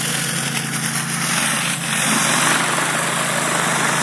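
An 8-gallon-a-minute, 3,000 psi pressure washer running steadily, its engine humming under the hiss of high-pressure water spraying onto concrete. The spray gets a little louder about one and a half seconds in.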